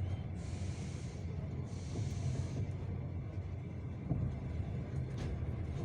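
Passenger railway car rolling slowly under braking, with a steady low rumble from the wheels and the cast-iron brake shoes hissing in two short bursts in the first half. A single sharp knock about four seconds in.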